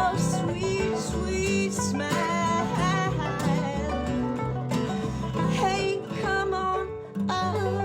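Acoustic string band playing a country-bluegrass style song with plucked guitar, bass and singing, closing on a sustained chord about seven seconds in that rings out and fades.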